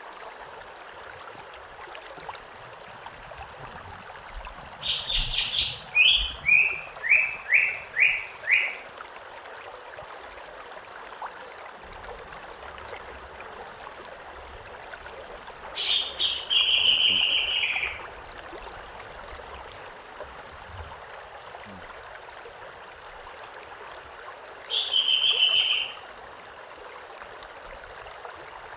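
Steady rush of a river or stream, with a songbird calling three times: a run of quick, repeated, falling notes about five seconds in, a longer phrase around the middle, and a short phrase near the end.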